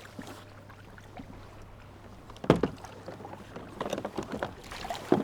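Kayak on the water: a sharp knock against the hull about halfway through, then paddle strokes splashing and dripping, with another knock near the end.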